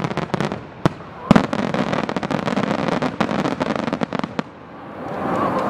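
Aerial fireworks crackling: a dense rapid run of sharp reports, with two louder booms about one and one and a half seconds in. The crackle thins out and dies away about four and a half seconds in.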